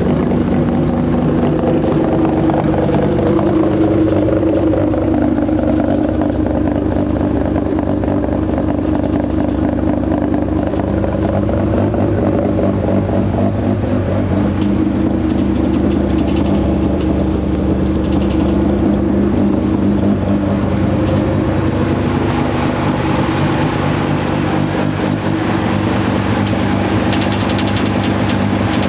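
Bridgeported 6-port Mazda RX-7 Wankel rotary engine with turbocharger, running at idle shortly after its first start, its pitch wavering slightly now and then.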